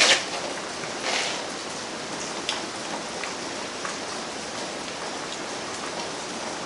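Steady rain falling, an even hiss with scattered light drip ticks, with two brief louder rustles at the very start and about a second in.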